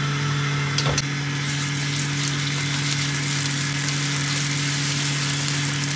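Onions and tomato paste sizzling in hot oil in a stainless steel wok, the sizzle growing louder about a second and a half in as the paste is stirred through. A single knock of a spoon just under a second in, over a steady low hum.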